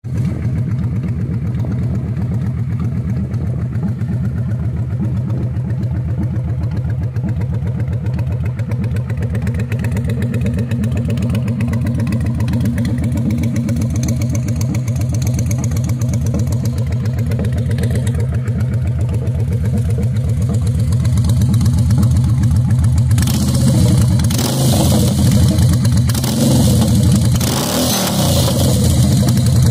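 Honda V-twin cruiser motorcycle engine running through long straight chrome exhaust pipes, idling steadily with a regular low pulse, then blipped up and down in revs over the last several seconds.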